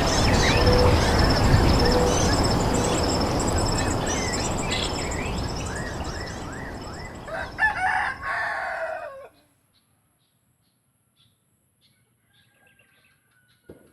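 A rooster crowing about eight seconds in, over a loud steady noise and repeated short chirps of small birds. Everything cuts off suddenly after about nine seconds, leaving near silence.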